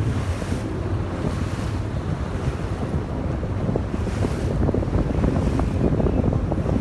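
Wind buffeting the microphone over the steady low rumble of a moving yakatabune houseboat's engine, with water washing past the hull.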